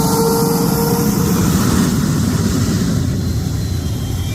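F-22A Raptor's twin F119 turbofan engines at low taxi power: a steady low rumble with a faint steady whine that fades out about a second in.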